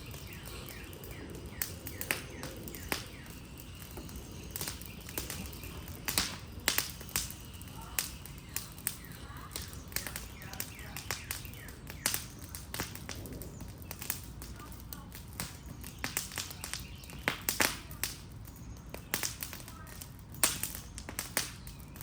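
A wood fire crackling as a wooden Adirondack chair burns: irregular sharp pops and snaps, a few much louder than the rest, over a low steady rumble of flame.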